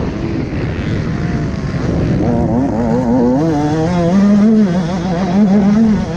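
125 cc two-stroke dirt bike engine being ridden, revving up and down with the throttle. Its pitch wavers quickly up and down through the middle of the stretch.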